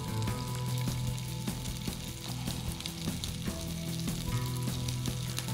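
Skewered chicken chullu kabab sizzling steadily as it shallow-fries in a little oil in a frying pan.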